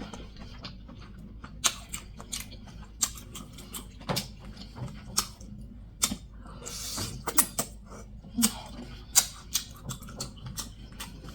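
Close-miked eating of a seafood boil: irregular sharp clicks and wet mouth smacks, with a short slurp about seven seconds in.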